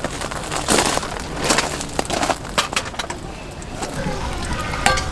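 Objects being handled: a series of irregular knocks, clatters and rustles, with a brief ringing clink near the end.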